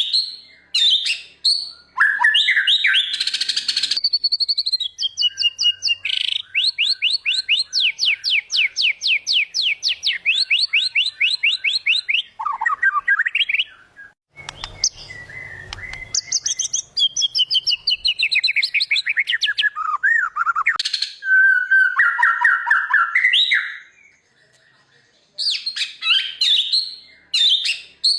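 White-rumped shama (murai batu) singing a loud, varied song of whistled phrases and chattering notes, including a long run of rapid rising notes about four a second. Its song breaks off about halfway through for a brief low rumble, and pauses again briefly near the end.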